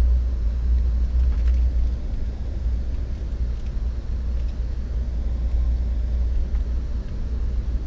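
Steady low rumble of an Amtrak passenger train rolling along, heard from inside the passenger car, with a few faint ticks.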